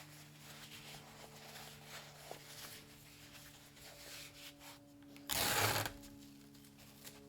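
Packing materials being handled and rubbed, a soft rustling over a steady low hum, with one loud rasping burst of about half a second a little after five seconds in.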